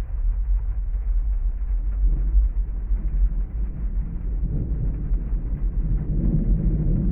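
Thunderstorm ambience: a steady deep rumble under an even hiss of rain, with a roll of thunder building from about two seconds in and loudest near the end.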